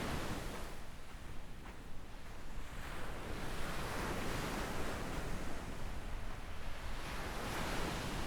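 Small ocean waves breaking and washing up a sandy beach, the surf rising and falling in swells every few seconds.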